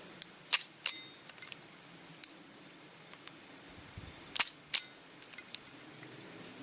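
Sharp metallic clicks from a revolver's lockwork as the trigger is pulled double action and the hammer is drawn back, loudest in two pairs about half a second in and about four and a half seconds in, with lighter clicks between.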